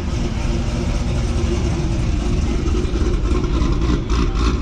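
Modified car engine idling with a choppy, lopey cammed idle, a steady uneven rumble through its exhaust.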